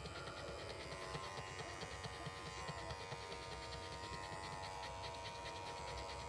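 Electric dog-grooming clippers running with a steady hum, held to a young puppy's feet.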